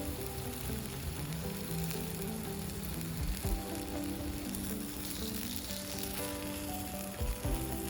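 Meat sizzling steadily on a hot iron steak plate, a continuous crackling hiss, with soft background music playing.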